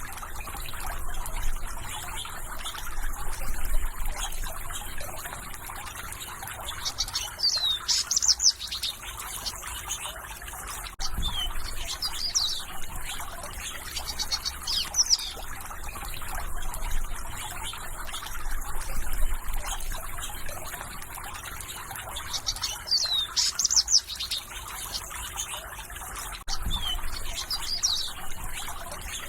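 Songbirds singing in short repeated phrases every few seconds over the steady trickle of running water.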